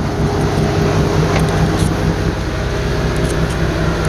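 Twin Yanmar marine diesel engines idling, a steady low rumble with an even hum, a few faint clicks over it.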